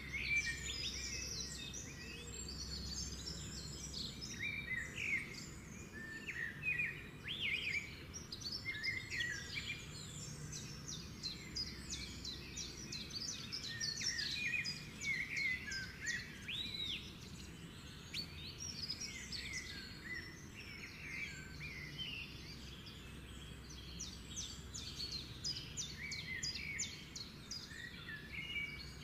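Many small birds chirping and twittering in short, overlapping calls, over a low steady hum.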